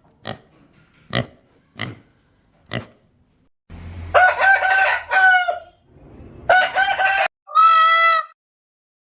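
A rooster crowing twice, the first crow long and the second shorter, after four sharp clicks. Near the end comes a short, even-pitched call.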